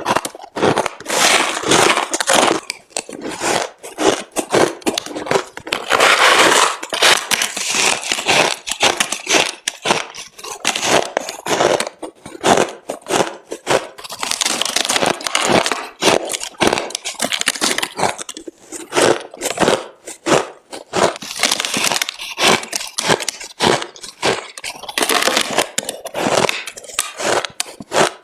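Crushed ice bitten and crunched between teeth close to the microphone: rapid runs of crisp cracking crunches with short pauses between bites.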